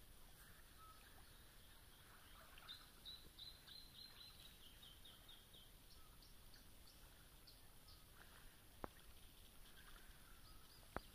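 Faint birdsong: runs of quick, repeated high notes over quiet background noise. Two sharp clicks come near the end and are the loudest sounds.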